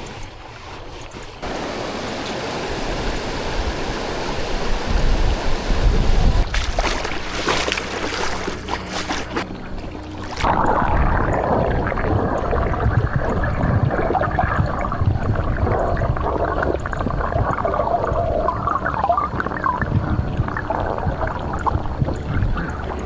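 Running water of a forest stream, a steady rushing that changes character suddenly about a second in and again about ten seconds in. A few scattered clicks sound in the middle.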